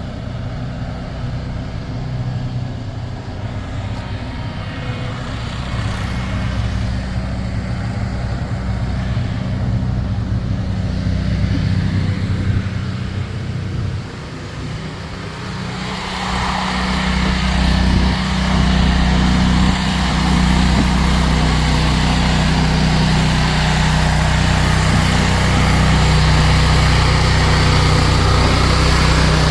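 Engine of a snow-plowing machine running steadily; about sixteen seconds in it gets louder, with a rougher, noisier sound over the engine note.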